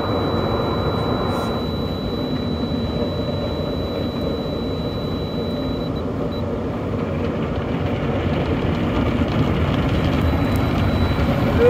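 Automatic tunnel car wash running, heard from inside the car: a steady rushing noise of the rotating brushes and spraying water on the body, with a faint high whine, growing a little louder near the end.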